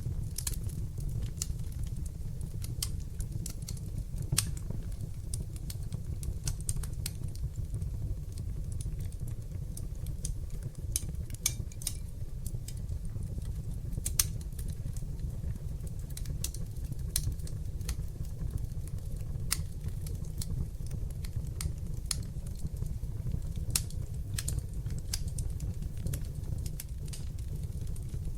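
Wood fire burning in a hearth: a steady low rumble of flames with frequent sharp, irregular crackles and pops from the burning logs.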